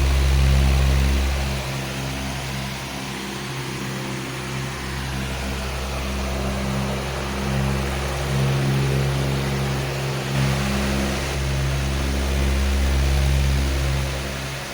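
Powerful electric fan running: a low motor hum with steady tones under a broad rush of air, swelling and easing slightly.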